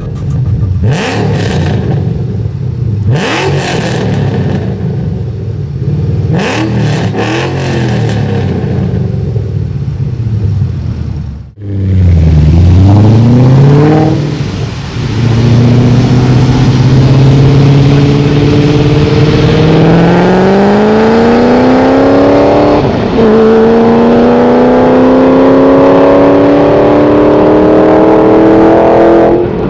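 Supercharged Ford Mustang Shelby GT500 V8 at high volume: several short throttle blips for roughly the first ten seconds. Then the car pulls away and accelerates hard, its engine note climbing slowly and steadily for most of the rest.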